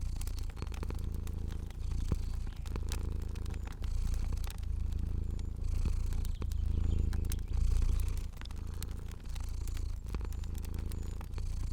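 Cat purring in a low, steady rumble that swells and fades with each breath, about every second and a half, with scattered sharp crackles from a fire.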